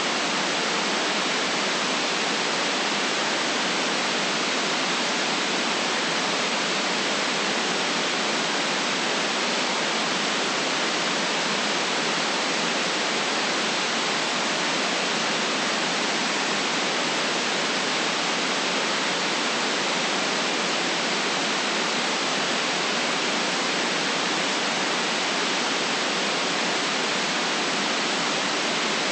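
Steady generated white noise: an even, unchanging hiss with no deep rumble beneath it.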